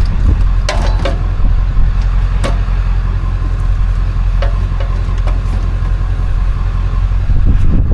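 A motor vehicle's engine running with a steady low rumble, and a few short knocks and clicks over it.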